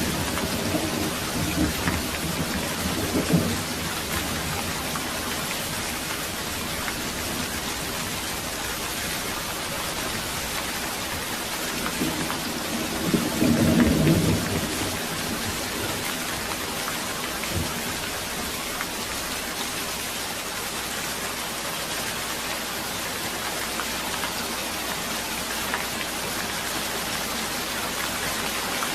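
Steady rain falling, with thunder rumbling: a rumble fades over the first few seconds and another swells about halfway through.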